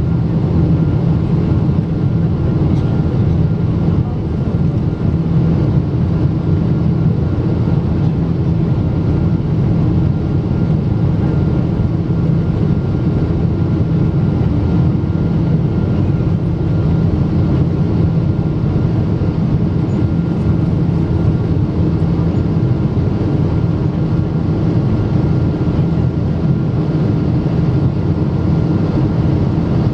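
Steady cabin noise inside a Boeing 777-200 airliner: a constant low drone of the engines and airflow, with a few faint steady hums and no change in pitch or loudness.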